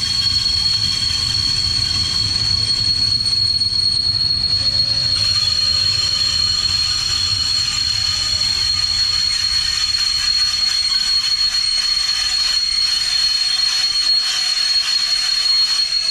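Brakes of a train hauled by a BR 01 steam locomotive squealing as it slows into a station: one loud, steady, piercing high squeal, with a low rolling rumble beneath it.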